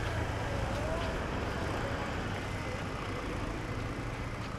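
Steady low rumble of a motorbike engine running, with road traffic noise around it.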